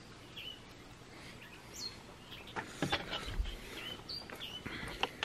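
Birds chirping, short high calls repeated every second or so, with a few sharp clicks and a brief low thump a little past halfway.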